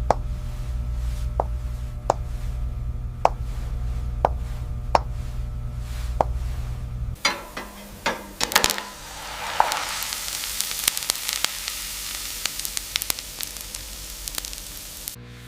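A steady low electrical hum with light clicks every second or so cuts off about seven seconds in. A fizzing, crackling hiss takes over.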